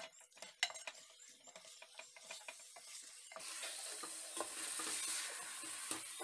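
A wooden spatula stirring chicken pieces in a metal pot, scraping and knocking against the pot. From about three seconds in, the marinated chicken sizzles steadily as it fries in the masala.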